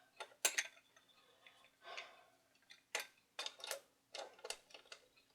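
Small hard parts of a record player being handled while the 45 rpm spindle is sought and fitted: about eight irregular sharp clicks and clacks, the loudest about half a second in and a cluster around three seconds in, over a faint steady hum.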